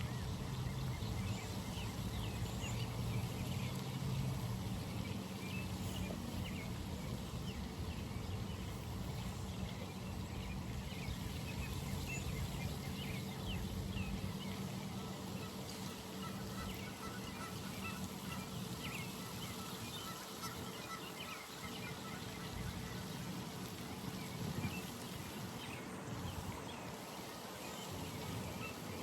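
Early-morning pond ambience: many small birds chirping and calling, with a low steady hum underneath that fades about halfway through.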